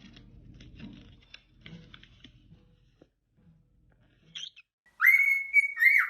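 Faint rustling and scratching, then a pet parrot whistles loudly about five seconds in: a note that rises, holds steady, and is followed by a second short rising note.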